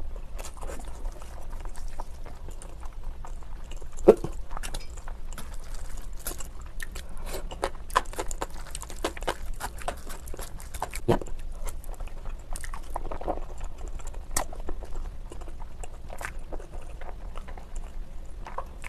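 Close-miked chewing and slurping of spicy noodles eaten with chopsticks: a steady run of short wet mouth clicks and smacks, a few louder ones about four and eleven seconds in. The audio is sped up to double speed.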